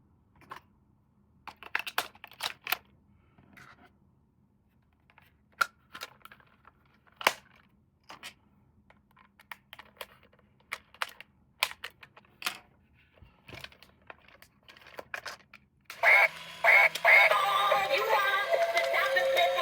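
Scattered clicks and rustles of a toy being handled and unpacked. About three and a half seconds before the end, a battery toy's electronic music with synthesized singing starts and plays loudly.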